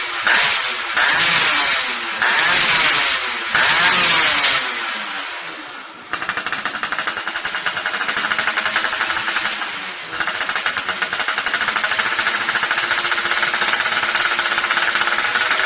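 Yamaha F1ZR's single-cylinder two-stroke engine running through a racing exhaust. It is revved in several short blips, falls away, and then idles steadily with a fast, even pulse.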